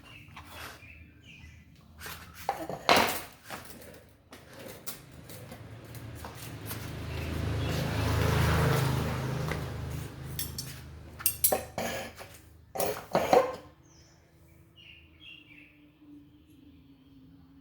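Metal fan parts and tools clinking and knocking as they are handled, in two clusters. Between them a noisy swell rises and fades over several seconds.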